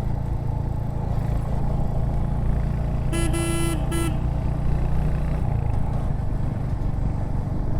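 Royal Enfield Hunter 350's single-cylinder engine and exhaust running steadily under way, with a vehicle horn honking twice, briefly, about three seconds in.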